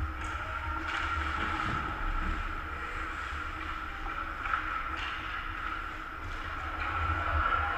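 Steady low rumble and hum of an ice hockey rink during a game, with a few faint knocks from play on the ice.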